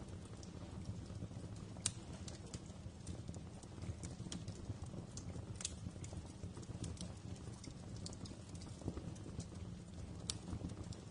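Wood fire crackling: irregular sharp snaps and pops over a low, steady rumble of burning, with the loudest pop about two seconds in.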